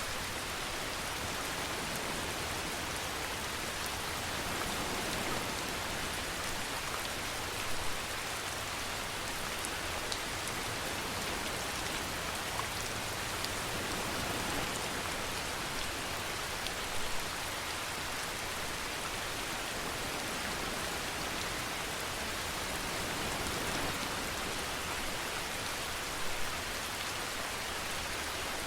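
Steady rainfall pattering on surfaces, an even hiss with a few sharper drop hits standing out now and then.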